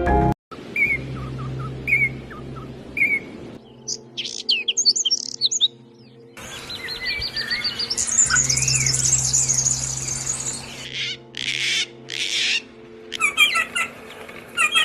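Small birds chirping and singing in a string of short cut-together clips. First come single chirps about once a second, then a quick burst of high twittering, then a long, rapid trill. Near the end the repeated short chirps return.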